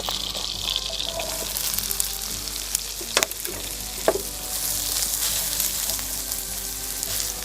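Chicken of the woods mushroom strips frying in butter in a pan over a campfire, a steady hissing sizzle, with two sharp knocks about three and four seconds in.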